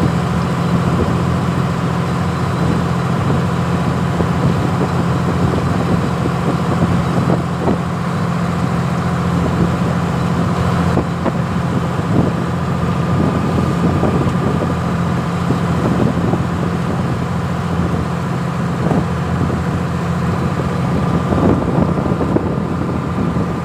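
Ship's engine running with a steady low hum and a faint whine above it, as the vessel docks.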